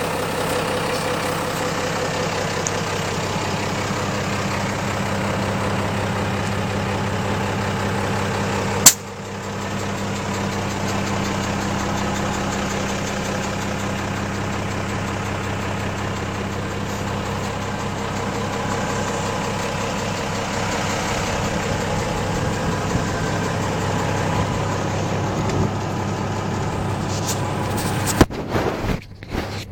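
Diesel engine of a 1988 Unimog SEE tractor idling steadily, with one sharp click about nine seconds in and a few abrupt knocks and breaks near the end.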